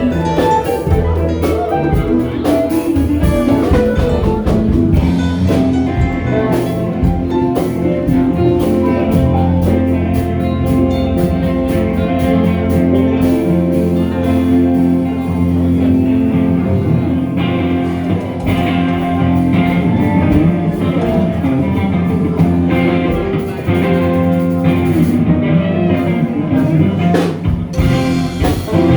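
A band playing an instrumental passage: guitar over bass and drums.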